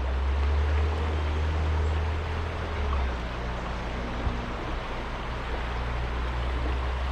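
Creek water running over stones in a steady hiss, with a steady low rumble underneath.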